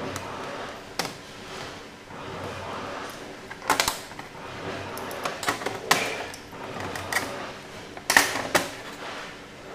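Irregular clicks and light clinks of small metal carburetor parts and hand tools being handled during work on a Pierburg 2BE carburetor, with sharper knocks about four seconds in and again near eight seconds.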